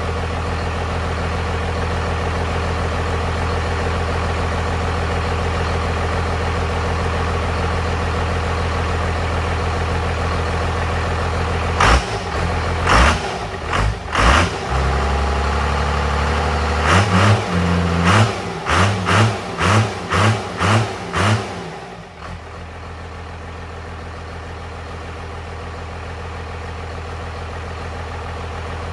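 A 12-valve Cummins turbo-diesel running on its first startup. It idles steadily, then is revved about halfway through in a string of short, sharp throttle blips, about a dozen in quick succession, and settles back to a steady idle.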